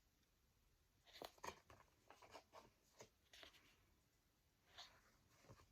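Near silence: room tone with a few faint, brief rustles and clicks.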